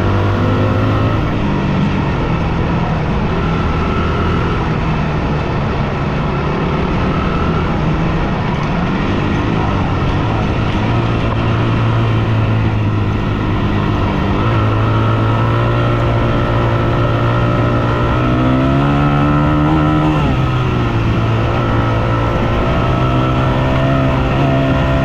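Yamaha WR250F single-cylinder four-stroke dirt bike engine running under way, its pitch rising and falling with the throttle and gear changes, climbing higher around the middle and dropping back near 20 seconds in.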